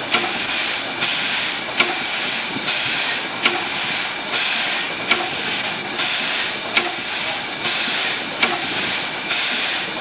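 Fowler steam traction engine running slowly, its exhaust giving an even hissing chuff about every 0.8 seconds, with a sharp click on every second chuff.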